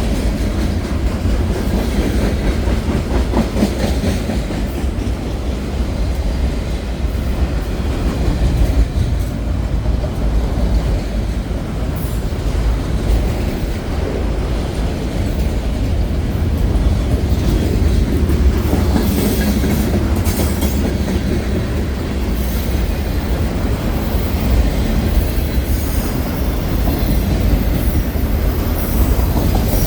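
Union Pacific freight train rolling by: a steady, loud rumble of railcars with the clickety-clack of wheels over the rail joints and scattered clicks.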